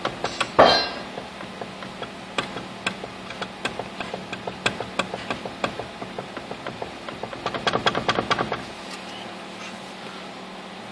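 Worn upper ball joint on a 1993 Nissan Terrano's front suspension knocking over and over, about two knocks a second, with a louder knock about half a second in and a quicker run of knocks near the end. A steady low hum runs underneath.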